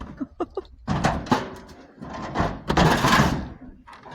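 Scrap metal being placed into a truck bed, with scraping and knocks as the pieces are shifted into place.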